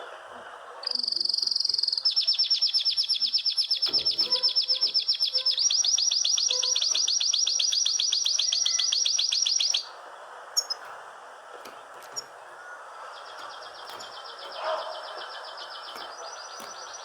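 Small songbird singing a long, very rapid high trill that shifts pitch in steps, stopping abruptly, then a softer trill starting a few seconds later.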